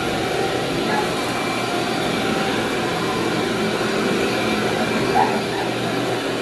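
Vacuum cleaner running steadily over carpet, a constant motor hum with airflow noise.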